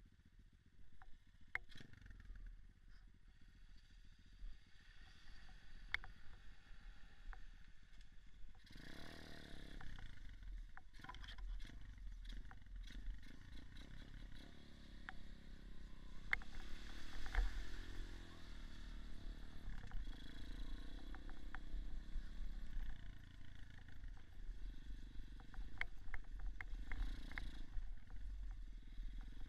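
Small off-road motorcycle engine running while riding, over a steady low rumble with scattered clicks and knocks. The engine grows louder about nine seconds in, and its pitch rises and falls a little past the middle.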